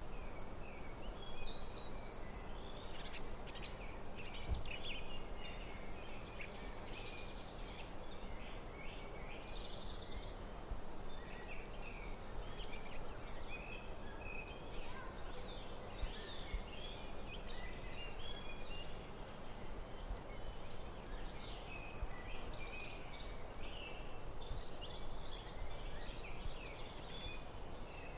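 Forest birdsong: several birds giving short chirps and trills throughout, over a steady low outdoor background noise.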